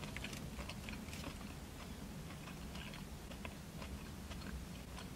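A person chewing a mouthful of burger, with many soft, small clicks of chewing over a low steady hum.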